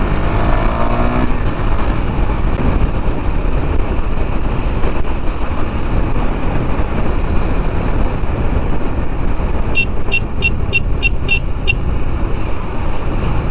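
Steady wind and road rush while riding a KTM 390 Duke, its single-cylinder engine rising in pitch as it accelerates in the first second. About ten seconds in, a vehicle horn beeps about seven times in quick succession.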